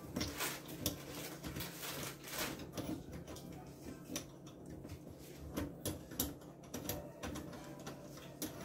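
Plastic drain-trap parts being handled and fitted together under a sink: an irregular run of small clicks and knocks.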